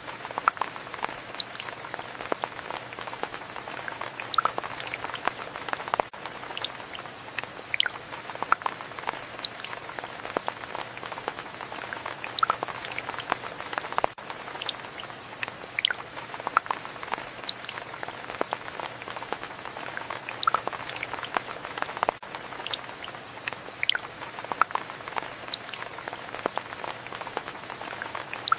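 Steady rain: an even hiss dotted with many sharp single drop hits. The same stretch of rain repeats about every eight seconds, a looped recording.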